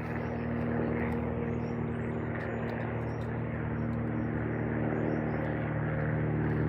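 Steady engine drone, a low hum held at a constant pitch, growing slightly louder toward the end.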